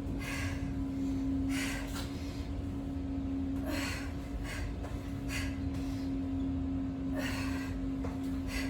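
A woman breathing hard from exertion during push-ups, a forceful breath about every one and a half to two seconds, over a steady low hum.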